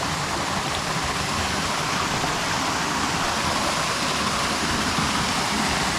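Steady rush of stream water flowing over stones.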